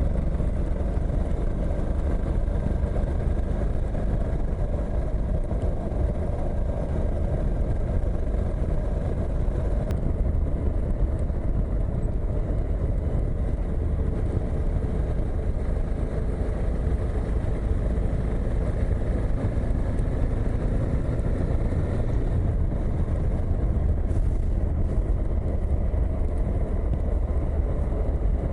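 Suzuki V-Strom motorcycle on the move: the engine runs steadily under road and wind noise, with no clear change in speed.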